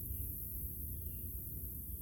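Outdoor background sound: a steady high hiss over a low rumble, with a faint short chirp repeating about once a second.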